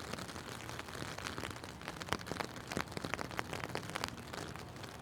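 Rain falling, with many irregular ticks of drops.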